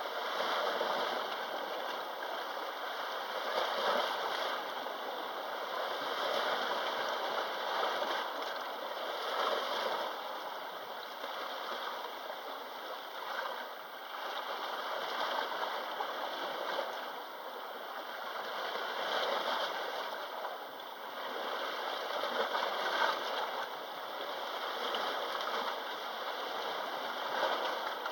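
Sea waves washing onto the shore, a continuous rushing surf that swells and eases every few seconds.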